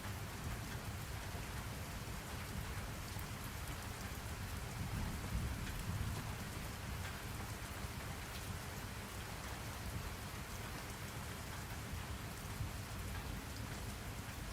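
Steady rain falling on a surface, with a low rumble underneath that swells a little about five seconds in.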